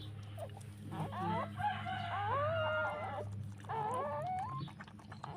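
A dog whining in high, wavering cries that rise and fall, in a long run starting about a second in and a shorter one near the end.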